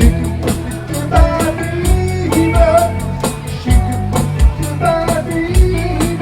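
Live band playing an instrumental passage: drums keep a steady beat with a low kick and regular cymbal ticks, under bass and a melody line that bends in pitch.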